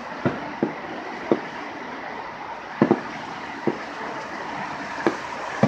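Distant fireworks going off: about eight sharp pops and bangs at irregular intervals, two in quick succession midway, over a steady background hiss.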